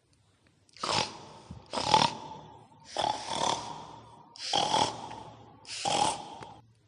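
Five raspy pig-like snorting grunts, one every second or so, presented as the sound of a babi ngepet, the were-pig ghost.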